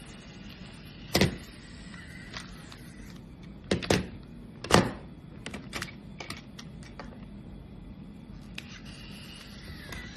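Small electric motor of a Hape battery-powered toy train running steadily, with several sharp plastic-and-wood clicks and knocks, the loudest about a second in and again around four to five seconds in.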